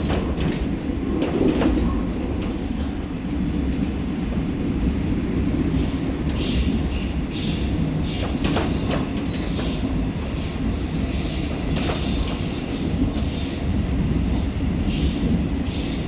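Seoul Subway Line 4 electric train running at speed, with a steady low rumble from its wheels and running gear. From about six seconds in, high-pitched wheel squeal and clatter come and go over the rumble.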